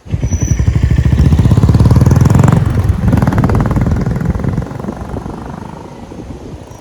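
Motorcycle engine passing close by, its firing pulses growing louder to a peak about two and a half seconds in, then fading as it moves away.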